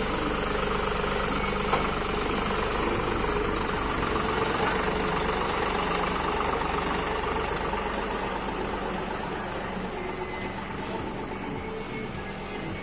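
Diesel engine of a John Deere 5210 tractor idling steadily, growing a little fainter in the second half.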